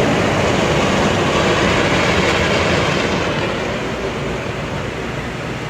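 Treadmill belt and motor running under a runner, a steady rumble that fades a little after about three seconds.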